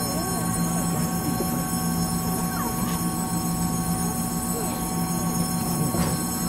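Taiwan Railways EMU700 commuter train standing at an underground platform: the steady hum of its onboard equipment heard from inside the carriage. A train on the far track is pulling out at the same time.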